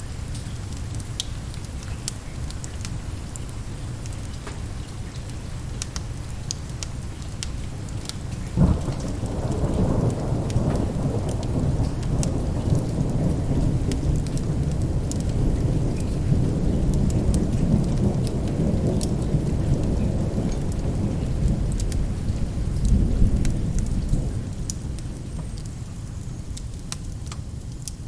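Steady rain with a thunderclap about a third of the way in: a sharp crack, then a low rumble that rolls on for about fifteen seconds before fading. Scattered sharp crackles of a wood fire run through it.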